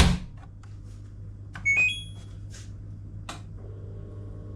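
LG washing machine control panel: a button click, then a short rising run of electronic beeps about two seconds in and another click shortly after, over a steady low hum.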